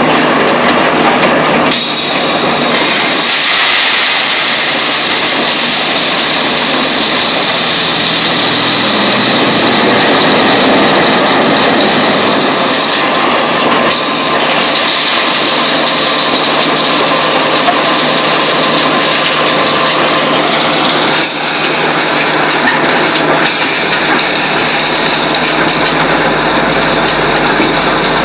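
Heavy machinery running with a loud, continuous rattling clatter, with shifts in the sound about two seconds in and again about twenty-one seconds in.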